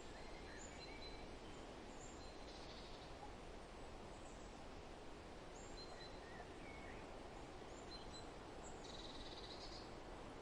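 Forest birds calling faintly over a steady soft rush of wind: scattered short chirps and whistles, with two brief buzzy trills about three seconds and nine seconds in.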